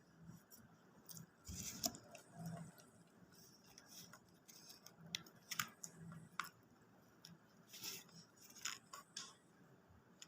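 A person eating McDonald's food: quiet chewing, with scattered small clicks and short smacking or rustling noises from mouth and food, a little louder about two seconds in and again near eight seconds.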